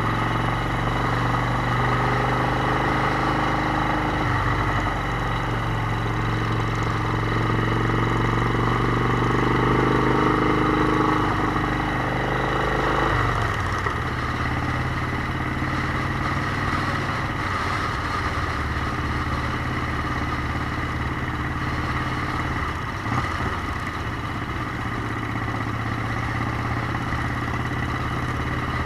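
Motorcycle engine running on the move, its note rising slowly for about eleven seconds, then dropping and changing about thirteen seconds in before running steady again.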